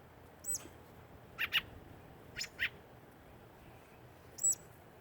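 Young birds chirping: about six short, sharp, high-pitched calls, two of them coming in quick pairs.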